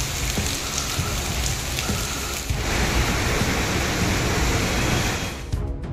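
Heavy rain pouring down in a steady hiss. It changes in tone about two and a half seconds in and eases off near the end.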